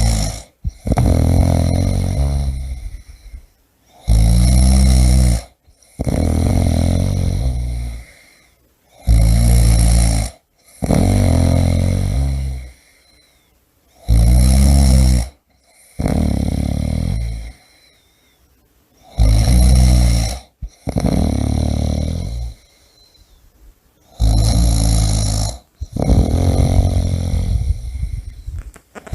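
A person snoring in a steady rhythm. Each breath brings a loud, rasping snore in two parts, and the cycle repeats about every five seconds, about five or six times.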